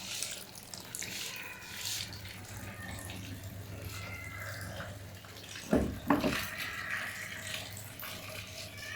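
PEL PAWM-900i automatic washing machine filling: water running into the drum with a steady low hum. Two loud thumps about six seconds in.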